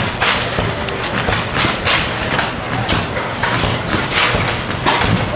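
Old stationary internal-combustion engine running steadily, its exhaust beating evenly about three times a second over a low hum.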